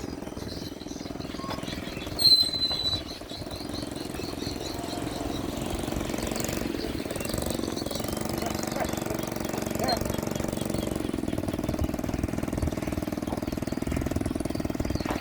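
Small motorcycle engine running steadily at low speed, with a fast, even chugging pulse. About two seconds in, a short, loud, high-pitched squeal.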